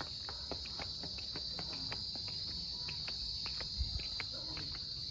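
Steady, high-pitched chorus of insects shrilling without a break, with scattered faint clicks and a low rumble beneath.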